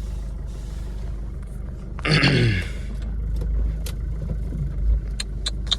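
Car engine idling with a steady low rumble. About two seconds in there is a brief loud sound with a falling pitch, and a few sharp clicks near the end.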